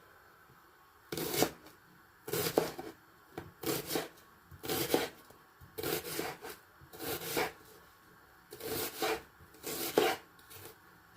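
Kitchen knife slicing through onion onto a wooden chopping board, in short groups of rasping strokes about once a second.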